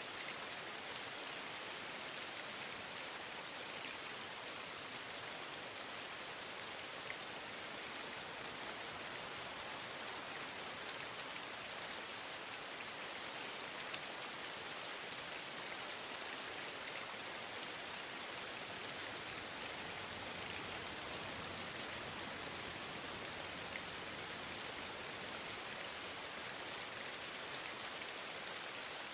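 Steady rain falling on a surface, with scattered small ticks of individual drops.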